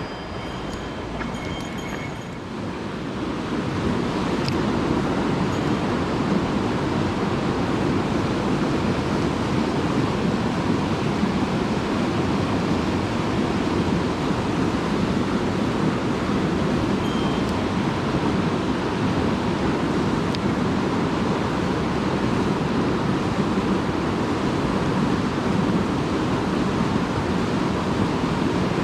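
Mountain stream water rushing, a steady noise that grows louder about three seconds in.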